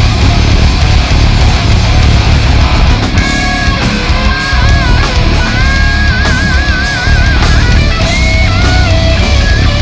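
Heavy rock band playing loud, with thick distorted guitars, bass and drums. From about three seconds in, a high lead melody with bends and wide vibrato rides on top.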